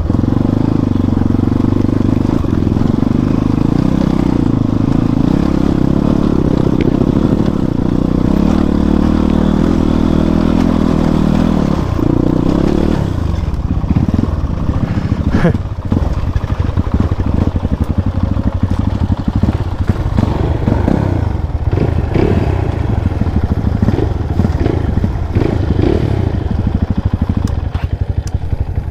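Motorcycle engine running steadily in a low gear for about twelve seconds, then dropping about twelve seconds in to a lower, uneven chug with clattering knocks as the bike crawls slowly over a slippery, muddy track.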